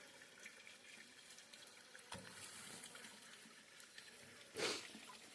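Faint, steady trickle of running water, with a short louder rushing noise about four and a half seconds in.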